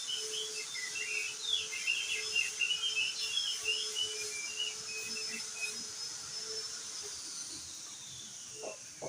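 Crested white-eye (opior jambul) singing a fast, jumbled run of short twittering notes for about the first six seconds. A steady high whistle-like tone sounds behind it and slides down in pitch near the end.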